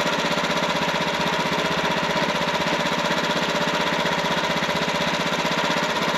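Wood-Mizer portable sawmill's engine idling steadily, with a fast, even pulse.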